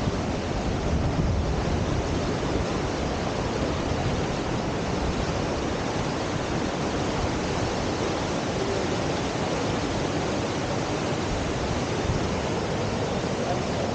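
Whitewater at a river surf wave rushing in a steady roar.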